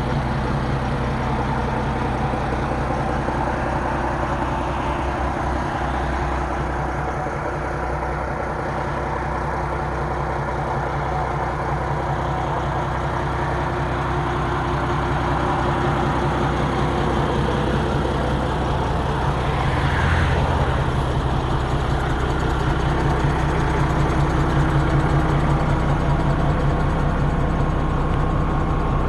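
Diesel engine of a 1976 MAN 11.136 4x4 military truck running steadily; about two-thirds of the way through its note changes and grows a little louder.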